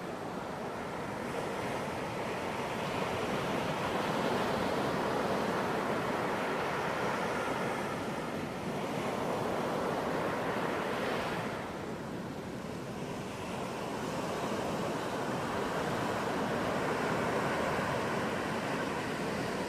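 Ocean surf: waves breaking and washing on a beach in a continuous rush that swells and eases, easing about twelve seconds in before building again.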